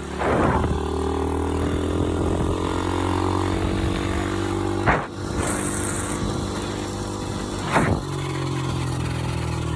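Pit bike engine running at speed, its pitch drifting slowly, with two short bursts of noise about five and eight seconds in.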